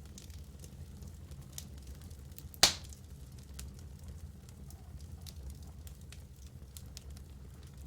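Wood fire burning in a fireplace: a steady low rumble with scattered small crackles, and one loud sharp pop from the logs about two and a half seconds in.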